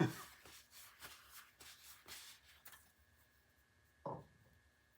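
Faint clicks and rubbing from metal mower differential parts being handled and fitted together on a workbench, with one short low knock about four seconds in.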